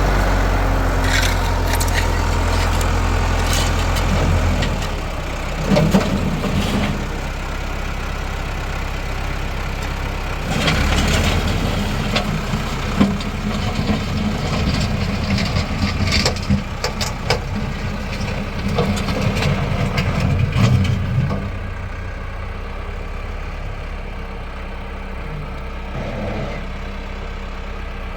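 Tractor engine running with repeated knocks and clattering over it. The engine is heaviest in the first few seconds and again from about ten seconds in, then eases off after about twenty-one seconds.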